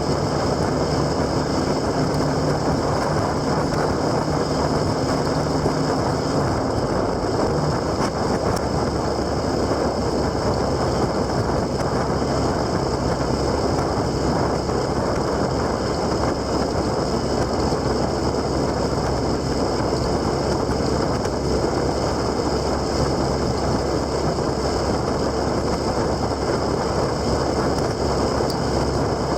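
Steady rush of wind and road noise from riding, with a low engine hum underneath whose pitch shifts about seven seconds in and again partway through.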